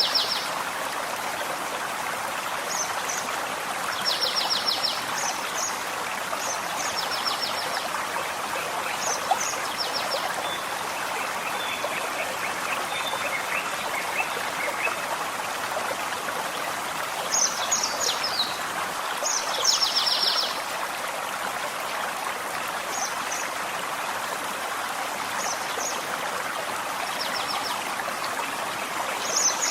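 Forest stream running steadily, with small songbirds calling over it: short high chirps and several quick, rapid trills, plus a softer, lower trill near the middle.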